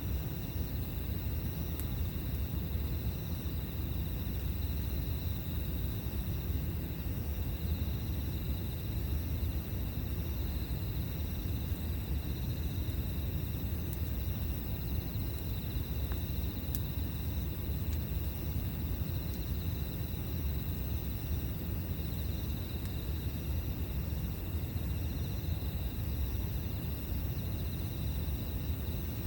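Crickets chirping steadily in repeated pulses over a low, even rumble. A few faint, sharp crackles from the campfire stand out now and then.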